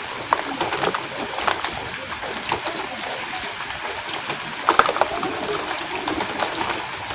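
Reformed gym chalk crumbling and crunching as it is crushed, with scattered sharp crackles and a louder crunch about five seconds in, over steady falling rain.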